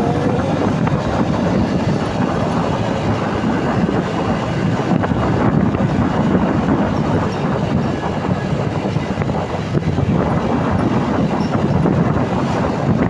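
Truck on the move at speed: a steady, loud low rumble of engine and road noise.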